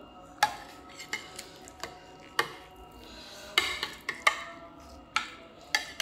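A kitchen utensil clinking against cookware: about a dozen sharp, ringing knocks at irregular intervals.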